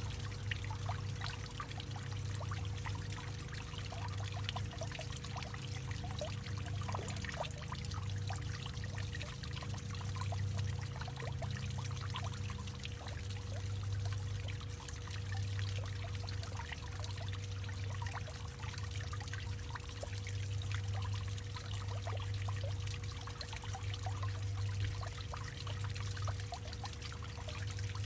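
Water trickling and dripping into a hollowed-out tree, with many small drips over a steady trickle and a low, hollow hum that swells and fades every couple of seconds.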